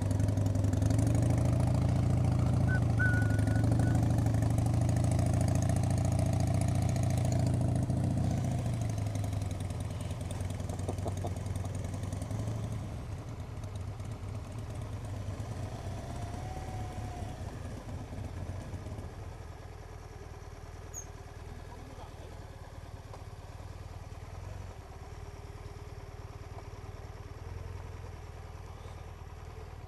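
Motorcycle engine running at a steady pitch for about eight seconds, then fading away over the next few seconds and leaving a much quieter background.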